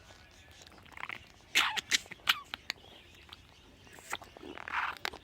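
Pet bird pecking and chewing at something: a string of sharp clicks and crunches, with a couple of short scratchy rasps.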